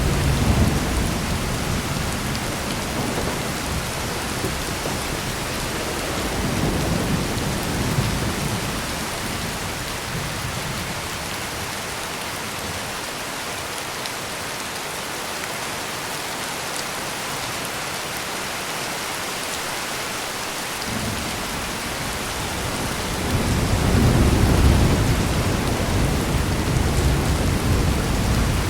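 Steady heavy rain pouring, with rolls of thunder: a rumble at the start, another about a quarter of the way in, and a longer, louder roll building through the last third.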